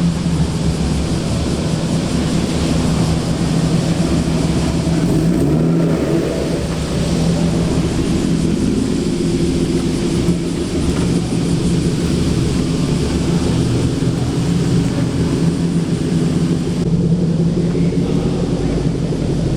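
Car engine and exhaust running steadily at low revs, a continuous low note with a loud, even level.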